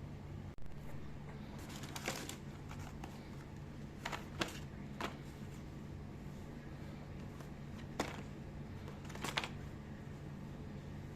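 Light handling noises: a few short rustles and soft clicks, as of products and packaging being picked up and set down, over a steady low hum.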